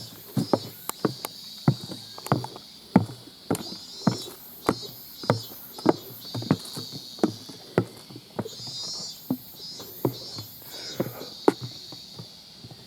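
Walking footsteps down a mountain trail, each step jolting an old camcorder's loose monitor so it clicks and clatters, about two knocks a second. A steady high insect drone runs underneath.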